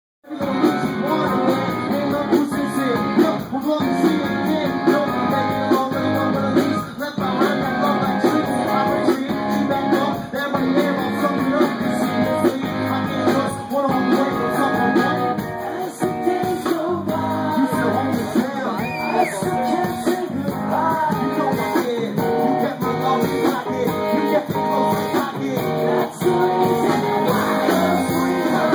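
A rock band playing a song, led by strummed guitars over a steady drum beat.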